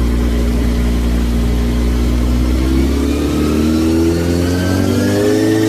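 Motorcycle engine running steadily, then rising in pitch from about halfway through as it revs up and accelerates.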